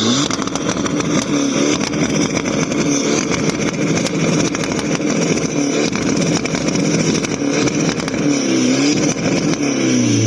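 Car engines running loudly with repeated rises and falls in pitch, as cars rev and drive past.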